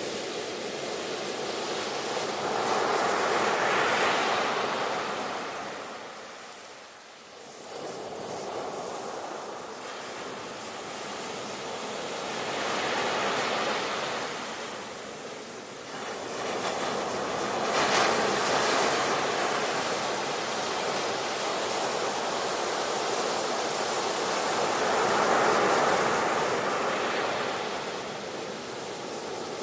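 Ocean surf: waves breaking and washing up, swelling and fading in slow surges every several seconds, with one sharper crash about two-thirds of the way through.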